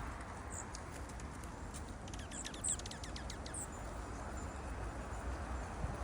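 Small wild birds giving a few short, high chip calls, with a quick run of faint ticks around the middle, over a steady background hiss.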